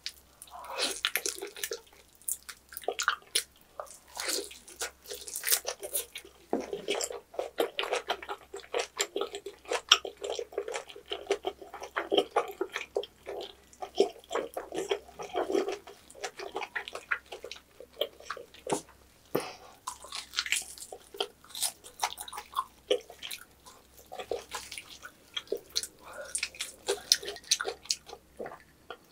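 Close-up eating sounds of roast pork knuckle (Schweinshaxe): bites into the meat and its chewy, crisp skin, then steady chewing with a dense, irregular run of short mouth clicks and smacks.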